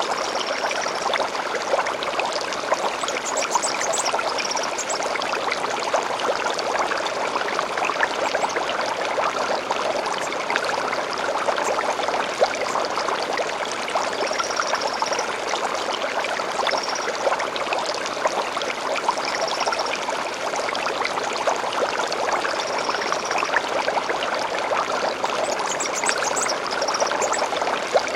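Stream water flowing steadily, with short high bird chirps coming in now and then over it.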